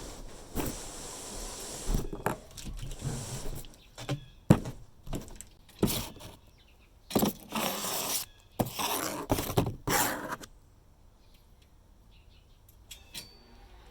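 Scraping and rustling handling noises with sharp knocks, the loudest about four and a half seconds in; they stop at about ten and a half seconds.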